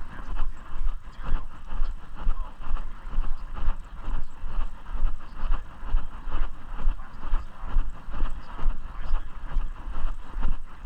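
Footsteps with a low rumble, likely wind and handling on the microphone, rising and falling in a steady walking rhythm of about three pulses every two seconds.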